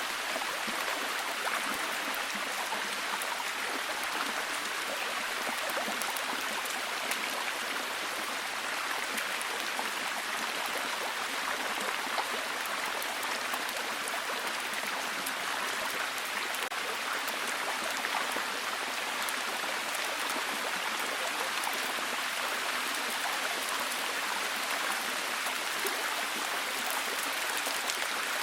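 Steady heavy rain falling, an even unbroken hiss with a patter of fine drops.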